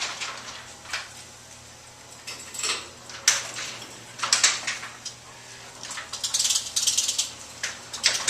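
Motorized garage screen door rolling up: a steady low motor hum with irregular rattles and clicks from the screen and its track.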